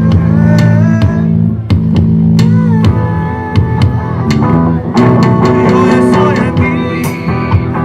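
Live band playing rock music: guitar lines that bend in pitch over bass and a drum kit keeping a steady beat.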